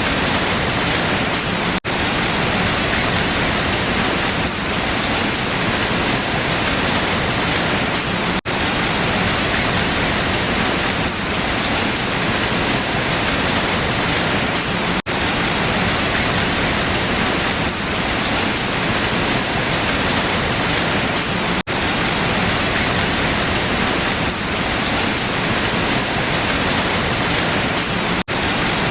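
Steady rain falling on leaves, an even dense patter, with a very short dropout in the sound about every six and a half seconds.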